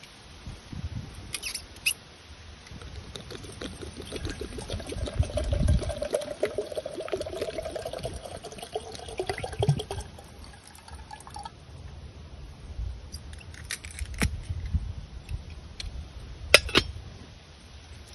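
Liquid being poured into a container for about seven seconds, its pitch rising as the container fills. Handling knocks come before it and after it, and a sharp click sounds near the end.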